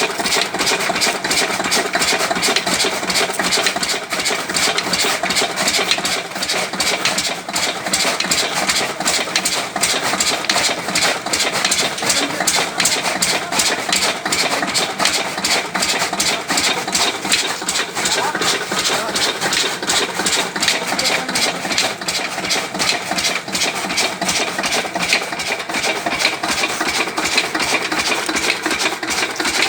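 Lister-type 8 hp single-cylinder diesel engine running steadily with a fast, even beat, driving a belt-powered chaff cutter that is chopping sugarcane into fodder.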